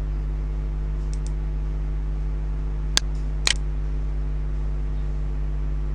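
Steady low hum with two sharp clicks about half a second apart midway through, and two faint ticks about a second in.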